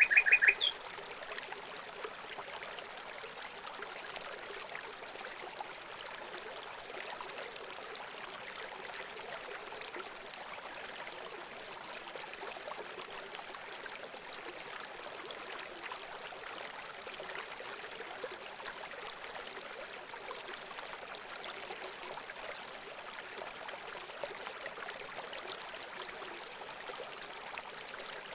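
Steady running water trickling, like a small stream. A few short, loud bird calls sound right at the start.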